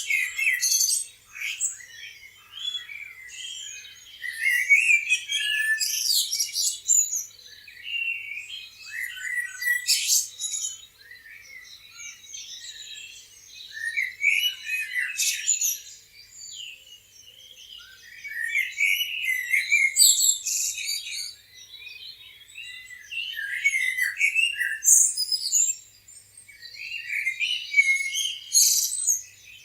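Many songbirds chirping and singing at once: overlapping high chirps and short trills that swell in bouts every few seconds.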